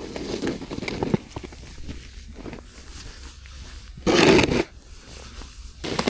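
Footsteps crunching through snow, an uneven run of small crunches and rustles, with a louder half-second crunch about four seconds in and another near the end.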